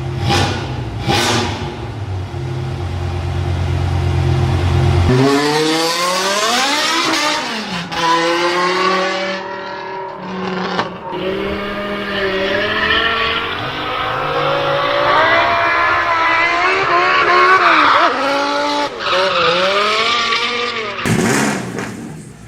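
Car engine running steadily at first, then revving hard, its pitch climbing and dropping several times as it pulls through gear changes.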